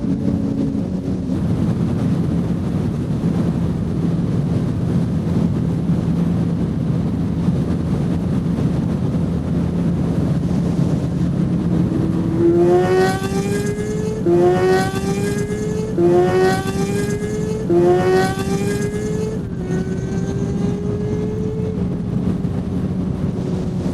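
Motorcycle engine running over steady wind and road noise at riding speed. About halfway through, the engine note rises and drops back four times in quick succession as the bike accelerates up through the gears, then it settles to steady cruising.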